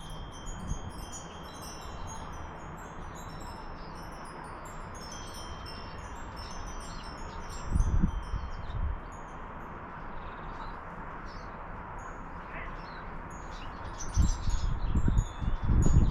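Wind chime ringing in a breeze, with many light high notes, some held and fading slowly. Gusts of wind rumble on the microphone about halfway through and again near the end.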